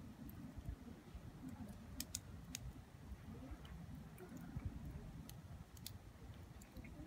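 Wood fire crackling, with a few scattered sharp pops over a low rumble.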